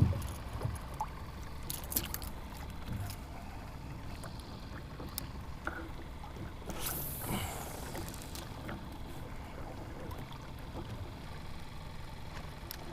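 Water lapping against a kayak hull in a current, over a steady low rumble, with scattered small knocks and a brief louder hiss about seven seconds in.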